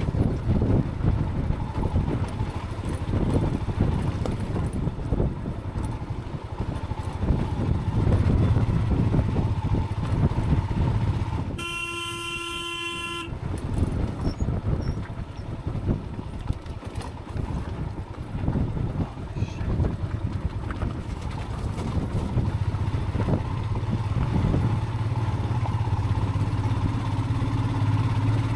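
Motorcycle engine running over a rough gravel track, with wind buffeting from the windshield on the helmet camera. About 12 seconds in, the motorcycle's horn sounds once, a steady blast of about a second and a half, as a warning on the narrow cliffside road.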